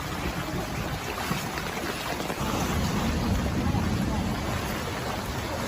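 Storm noise: wind buffeting the microphone over a steady rush of heavy rain, with the wind rumble growing stronger in the middle.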